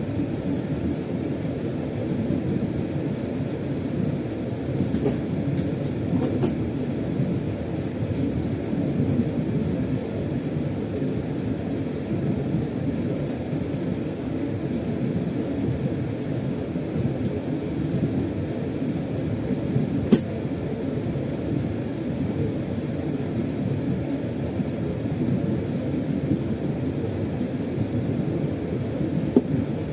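Freight train heard from inside the locomotive cab, running along the track with a steady low rumble. A few short, sharp high clicks come through: three about five to six seconds in, and one about twenty seconds in.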